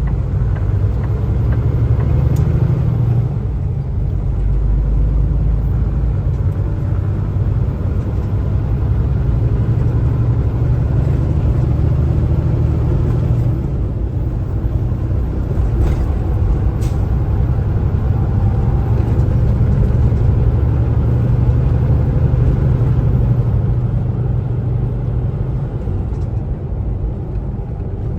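Kenworth T680 semi truck driving, its engine and road noise a steady low drone.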